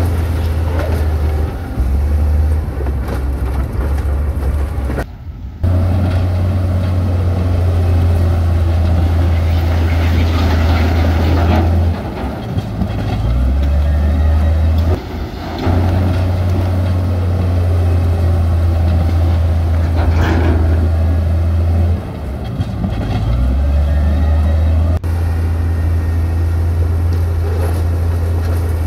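Heavy diesel engine of construction machinery running with a steady low drone, its pitch stepping up and down a few times as the machine works. The sound cuts out briefly about five seconds in.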